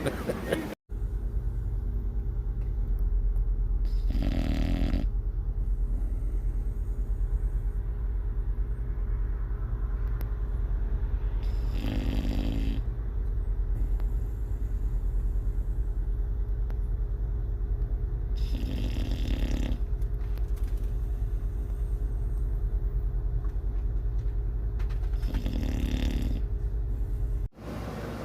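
Sleeping dog snoring: four long snores, each about a second long, spaced about seven seconds apart, over a steady low hum.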